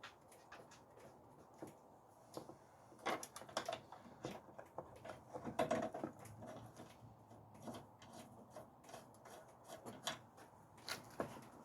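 Faint, scattered clicks and light knocks of hand tools and car parts being handled, with small clusters about three and six seconds in.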